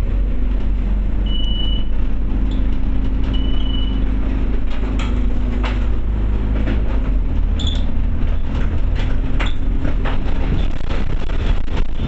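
Scania OmniCity bus heard from inside while it is under way: a steady engine and road drone. Two short high beeps sound in the first few seconds, and scattered clicks and rattles come in from about halfway through.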